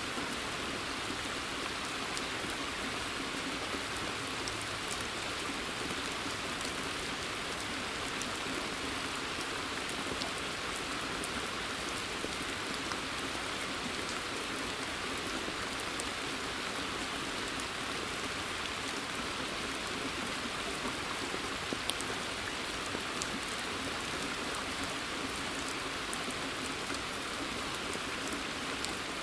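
Steady rain falling on a forest pond and its trees, a constant patter of drops with individual drips clicking on the water surface.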